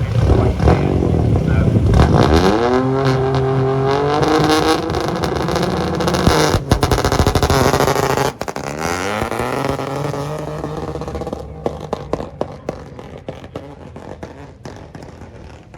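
Rally car engine accelerating hard away from the start line. The revs climb steeply, hold, and climb again through a gear change. The engine fades into the distance with a scatter of sharp pops.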